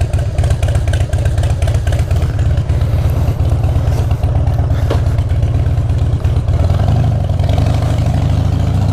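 Motorcycle engine running steadily, picked up by a mic in the rider's helmet, its firing pulses dense and even.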